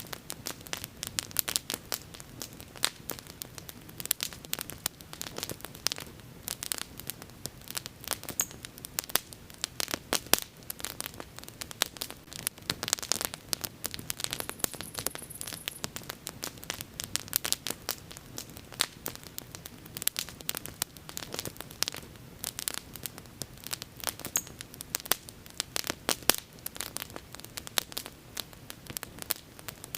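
Bonfire burning with dense, irregular crackling and popping over a low, steady rush of flame.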